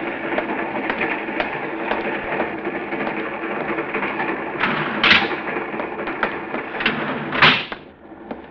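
Sound effect of a moving train: a steady rumble with regular clicks of the wheels over the rail joints, about two a second. Two short, loud rushes of noise come about five and seven and a half seconds in, after which the rumble drops.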